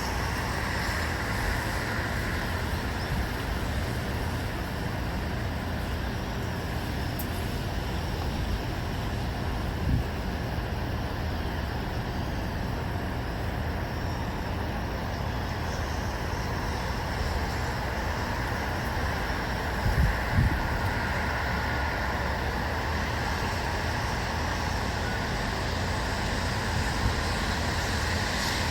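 Steady outdoor ambience dominated by a low rumble of distant road traffic, with brief low thumps about ten and twenty seconds in.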